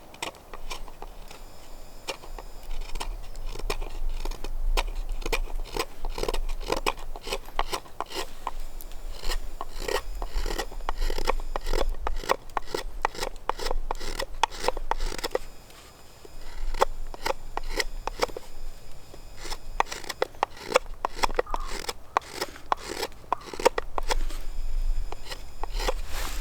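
Hand tool rasping and scraping on wood in quick repeated strokes, a few a second, pausing briefly about two-thirds of the way through and again near the end: wood being carved or filed by hand, as in shaping a wooden kuksa cup.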